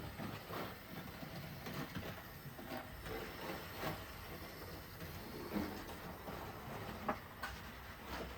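Model train running round the layout's track: a steady mechanical running noise with irregular clicks.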